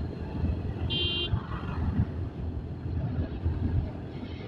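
Motorcycle on the move: low engine rumble mixed with uneven wind buffeting on the microphone, with one short, high vehicle horn beep about a second in.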